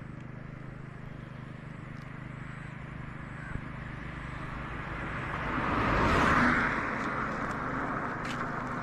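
Vintage Yamaha motorcycle engine running steadily. A rush of wet-road noise swells and fades about six seconds in.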